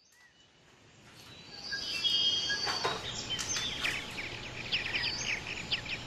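Near silence for about a second, then birds chirping and calling fade in over a steady background hiss; past the middle the chirps come thick and fast, many short high notes in quick succession.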